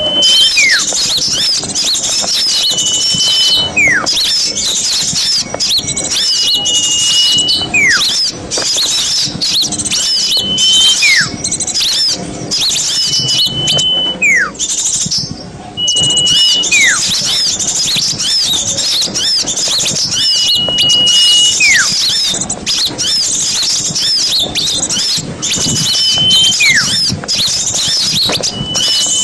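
A dense chorus of small songbirds chattering with fast, high chirps. Over it, about every three to four seconds, a call recurs: a level high whistle that ends in a quick falling note.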